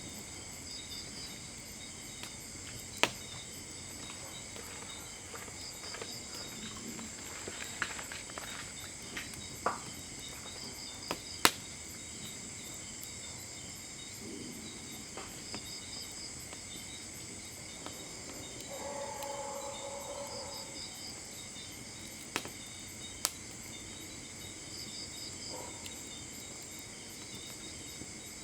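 Night insects, crickets, chirring steadily at a high pitch, with a rhythmic chirp pattern repeating every few seconds. Over it come a handful of sharp, isolated pops of burning wood, the loudest about three seconds in and again near eleven seconds. A short, low call sounds about two-thirds of the way through.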